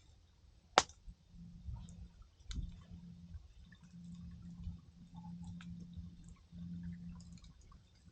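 Wood campfire crackling, with scattered small pops and one sharp, loud pop about a second in. A low hum comes and goes underneath.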